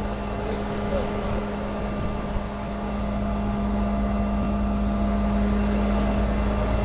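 Heavy tow truck's engine running steadily, with a constant low drone that grows slightly louder about halfway through.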